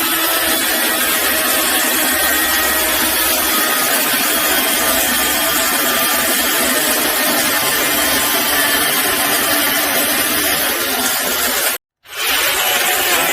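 Cordless mini chainsaw running steadily, its motor and chain making a loud continuous whir. It cuts off abruptly for a split second near the end and then starts again.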